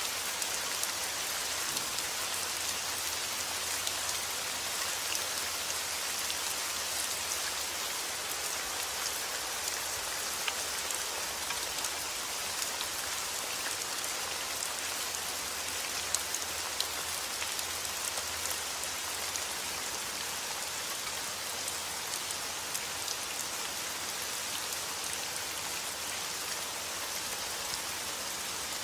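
Heavy rain falling steadily, an even hiss with many small drop impacts on surfaces.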